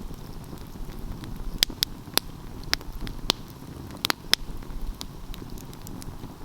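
Wood fire burning with a steady low rumble of flames and irregular sharp crackles and pops of the burning wood.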